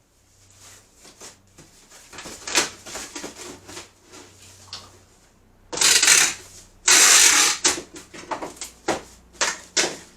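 Handling noises: irregular rustling and clattering, with two loud, harsh, noisy bursts about six and seven seconds in.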